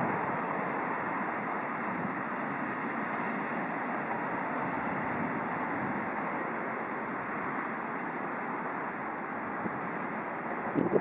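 Freight train of tank wagons rolling away along the track: a steady rumble and hiss of steel wheels on rail that slowly fades. A louder clatter starts right at the end.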